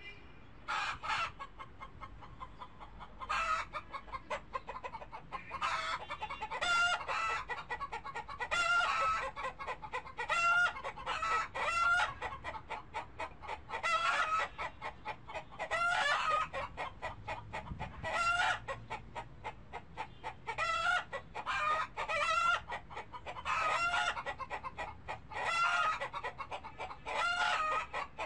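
Chickens clucking: short pitched calls in quick groups, repeating every second or two.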